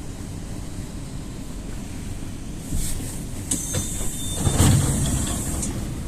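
EP2D electric train running with a steady low rumble. About three seconds in, a high hiss of compressed air starts and lasts roughly three seconds, with a heavy low clunk in the middle of it.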